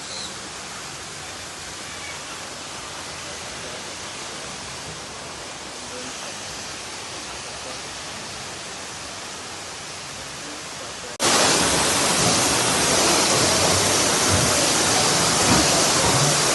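Steady rush of falling water, an even hiss with no pitch. It jumps suddenly louder about eleven seconds in.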